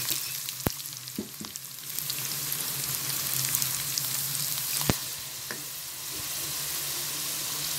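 Sliced onions and cumin seeds frying in hot oil in a wok, sizzling steadily as a silicone spatula stirs them. Two sharp clicks, one just under a second in and one about five seconds in.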